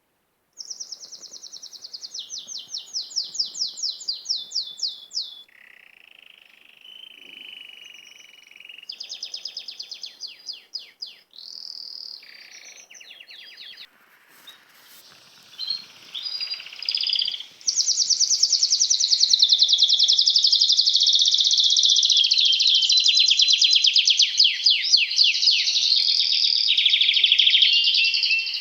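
Small songbirds singing: fast trills and chirps, one varied song after another, becoming loud and continuous about two-thirds of the way through.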